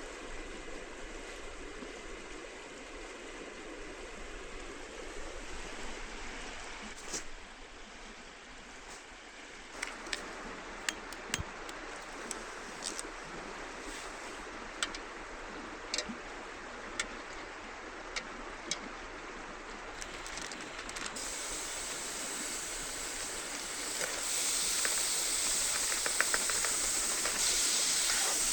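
River water flowing steadily, with scattered sharp clicks and knocks in the middle. Near the end a louder steady hiss takes over.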